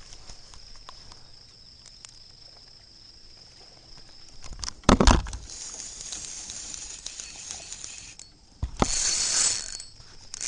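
Wipers (hybrid striped bass) splashing as they feed at the surface of the lake: a loud splash about five seconds in and a longer one near the end. A steady high insect drone runs underneath.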